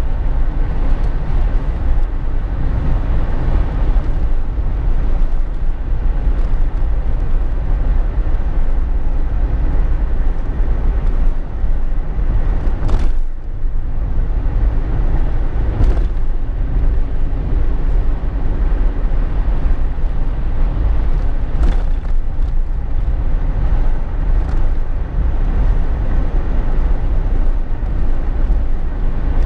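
Steady low rumble of a Jeep Wrangler JK driving on the road, heard inside the cabin: tyre, engine and wind noise, with a few brief clicks.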